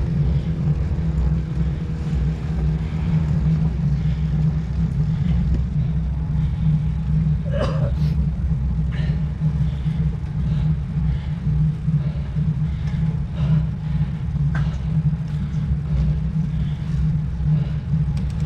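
Steady low wind rumble buffeting the microphone of a rider's camera on a moving road bike. A fainter pitched hum fades out in the first few seconds.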